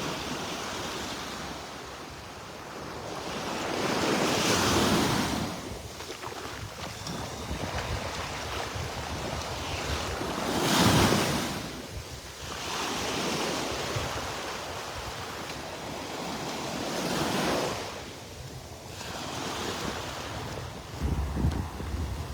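Small waves breaking and washing along the shore, each swell of surf rising and falling about every six seconds, the loudest about eleven seconds in. Wind buffets the microphone near the end.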